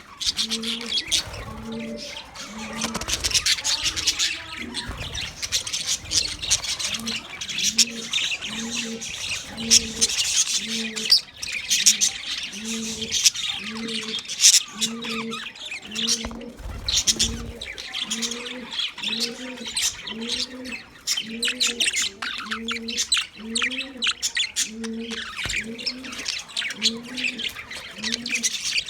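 A flock of budgerigars chattering and chirping continuously in a busy flurry of high warbles and squawks. Under it runs a low coo repeated steadily, a little more than once a second.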